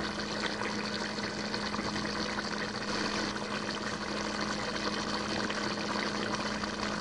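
Beef in a milk-and-water broth boiling hard in a shallow frying pan: a dense, steady bubbling fizz. A steady low hum runs underneath it.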